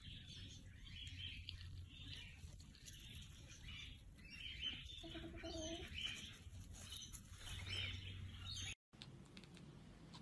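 Faint, quick high chirps from small birds, repeated over and over. About halfway through, a brief lower hum lasts under a second. The chirping cuts off abruptly about a second before the end.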